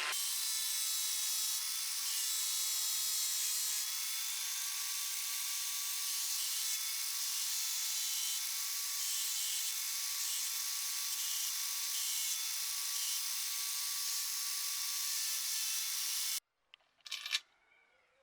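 Electric power tool running steadily with a constant high whine and a hiss. It cuts off abruptly about two seconds before the end, and a few light knocks follow.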